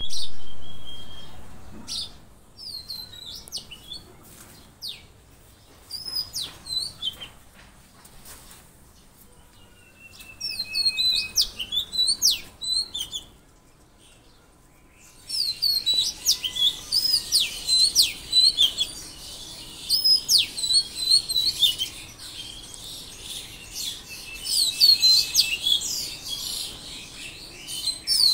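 Forest birdsong: scattered chirps and whistles from several birds, sparse at first, then after a brief lull about halfway a dense, busy chorus of many birds. A loud sound right at the start fades away over about two seconds.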